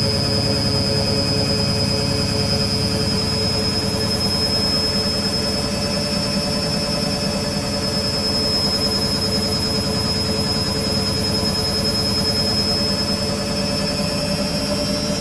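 Beko WTG620M1 washing machine running at speed, most likely spinning: a steady motor whine and drum hum, its high tone slowly rising.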